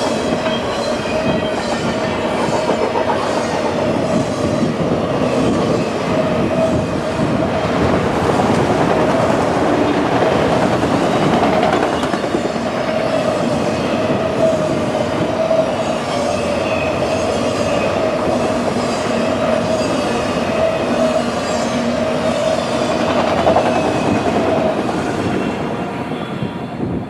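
Freight train rolling past, its wheels clicking over rail joints with a steady wheel squeal; it fades near the end.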